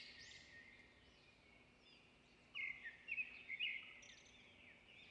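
Faint birdsong: a run of quick arching chirps fading out in the first half-second, then a few short chirps between about two and a half and four seconds in.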